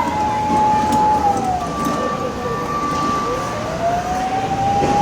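Fire truck siren wailing: a held tone drops in pitch about a second and a half in, then climbs back and holds again near the end. A fainter, higher steady tone sounds in the middle.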